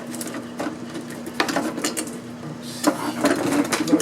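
Clicks and knocks of small electronic parts and plastic casing being handled while a powered speaker monitor is taken apart, over a steady low hum.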